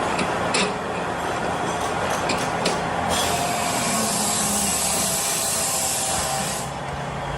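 A few sharp metallic clicks, then about three seconds in a steady high hiss starts and runs for about three and a half seconds before stopping.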